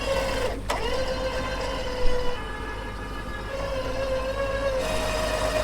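Vehicle-mounted winch whining steadily as it pulls the cable under load. The pitch dips slightly about half a second in and steps up a little near the end.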